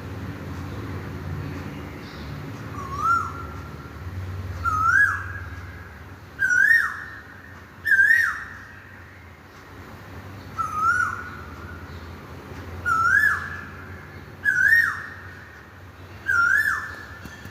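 A bird calling: a loud whistled note is repeated every one and a half to two seconds. Each note rises, holds briefly and then drops off sharply. The notes come in two runs of four, and within each run they grow louder and higher.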